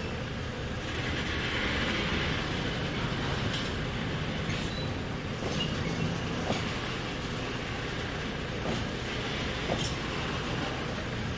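Diesel rail vehicle moving at low speed during shunting, a steady running noise with a few faint clicks from the wheels on the track.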